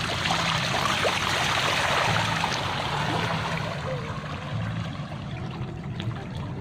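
Water running and trickling, loudest in the first few seconds and easing after, over a low hum.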